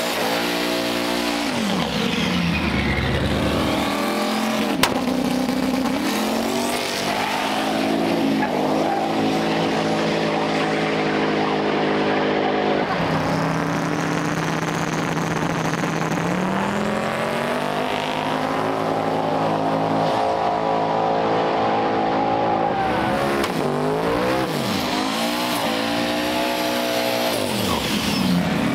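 Drag-racing vehicle engines revving hard and accelerating, the engine pitch climbing and dropping several times.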